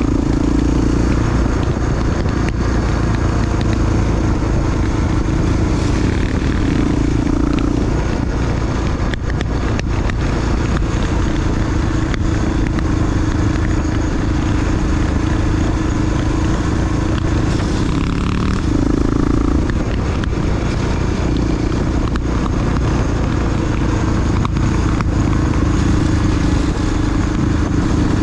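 Honda XR big single-cylinder four-stroke dirt bike engine running steadily while riding, with scattered clicks and rattles.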